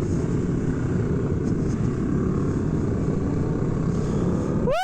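Motorcycles running in a group, heard as a dense steady low rumble mixed with wind buffeting on the microphone. Right at the end a short tone rises and falls in pitch.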